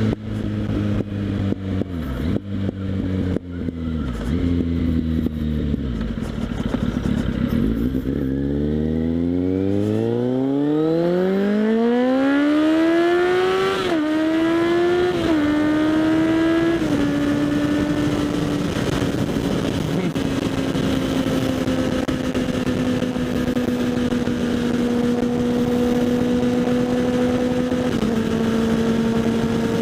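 Kawasaki Z800's inline-four engine through a LeoVince SBK slip-on exhaust, on the move. The engine note falls with several brief dips at first, then rises in one long climb as the bike accelerates, steps through a few quick gear changes about halfway, and settles into a steady cruise with a small drop near the end. Wind rush runs underneath.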